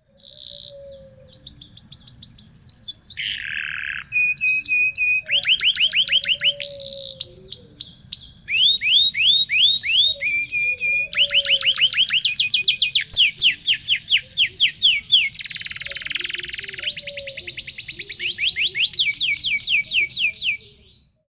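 Domestic canary singing one long, unbroken song of rapid trills: runs of quickly repeated notes that switch to a new phrase every second or two, stopping about a second before the end.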